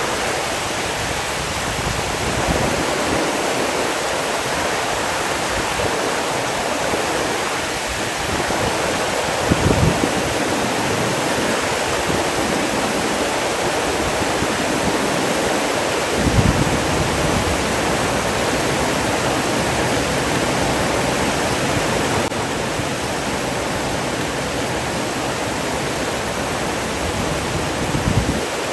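Steady rushing of flowing water, with brief low bumps three times: about a third of the way in, just past halfway, and near the end.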